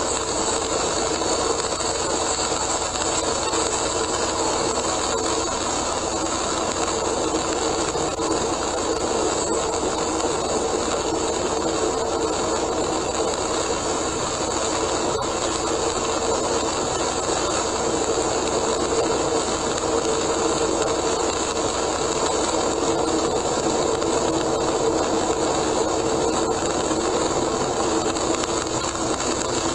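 Steady road noise of a car driving at expressway speed in heavy rain, heard inside the cabin: tyres hissing on the wet road, mixed with the rain.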